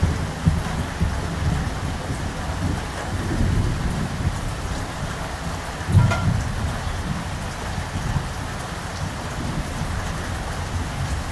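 Steady rain falling, with low rolls of thunder rumbling under it; the loudest roll comes about six seconds in.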